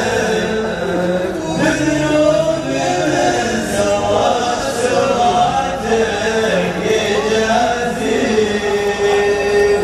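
Arabic male vocals singing a chant-like melody as a layered chorus, a cappella.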